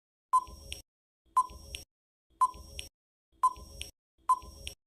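Countdown timer sound effect: five short beeps about a second apart, each with a sharp start and a brief tail.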